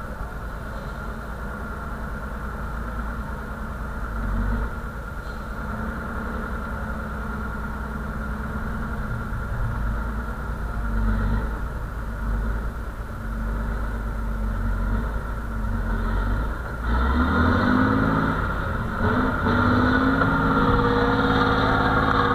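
Engine of an off-road truck-trial competition vehicle running under load on the course, its revs rising and falling. It gets louder and revs harder from about seventeen seconds in.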